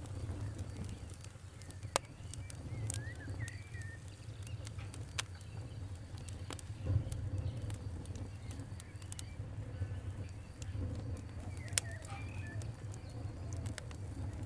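Wood fire crackling over a low steady rumble, with a few sharp, louder pops among the smaller crackles.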